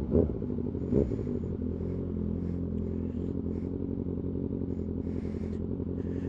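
Kawasaki ZX-6R's inline-four engine gives a short throttle blip about a second in, then runs at a steady, even pitch.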